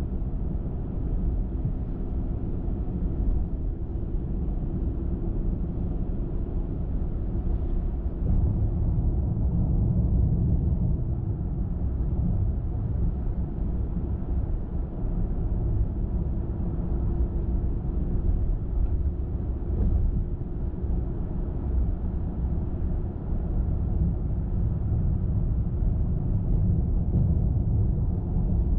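Car driving: a steady low rumble of tyres on the road and engine hum, growing slightly louder about eight seconds in.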